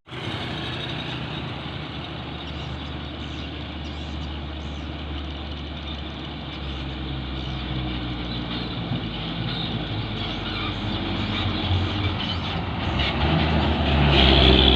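Heavy truck engine running with road noise, getting louder near the end.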